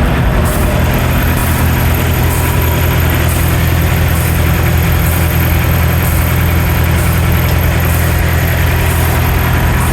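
Diesel engine idling steadily with an even low hum.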